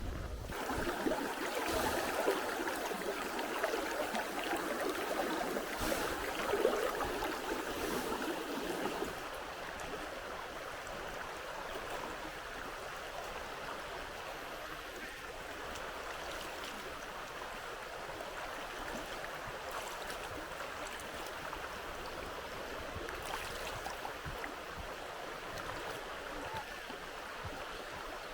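Flowing river water: a steady rushing, fuller and louder for the first nine seconds or so, then evener and softer.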